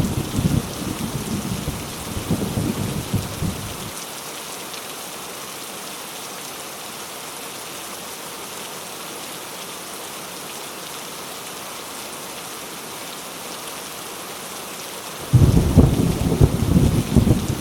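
Heavy rain falling steadily. A deep rumble of thunder fades out over the first few seconds, and a sudden loud peal of thunder breaks in near the end and keeps rolling.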